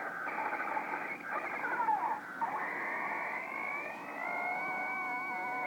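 Electronic noise-toy sound effects keyed over a CB radio, thin and band-limited through the radio channel: warbling, sliding tones at first, then a steady held tone of several notes for the last second and a half or so.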